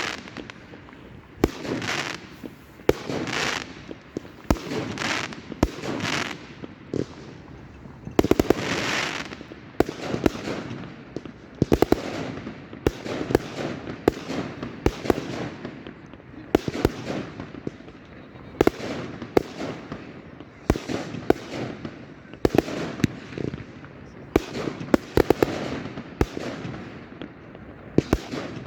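Fireworks going off in rapid succession, a hissing rush about every second with many sharp bangs among them.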